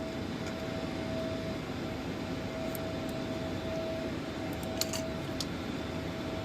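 Steady mechanical background hum with one constant tone, and a few light metallic clicks about five seconds in from hand tools and fittings being handled on the engine.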